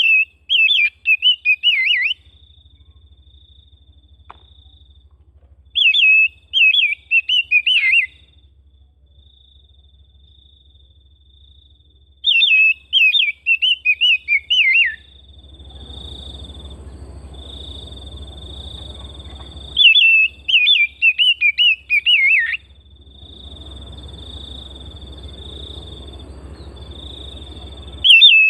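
Oriental magpie-robin (kacer) singing: five bursts of quick, repeated whistled notes, each about two seconds long and spaced about six seconds apart. A faint steady high tone and a low hum run underneath.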